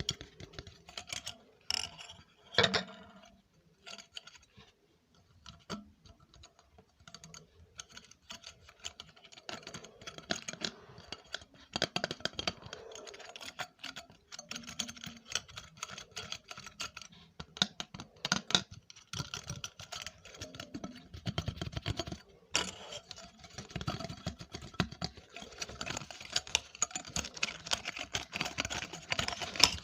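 ASMR trigger sounds: rapid, irregular light tapping and clicking, dense like typing, with a sharper louder tap about two and a half seconds in and another about twenty-two seconds in.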